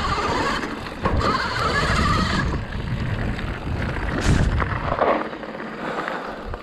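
Riding noise of an electric mountain bike on a dirt trail: wind rushing over the microphone and tyres rolling over rough ground, with a few knocks from the bike over bumps.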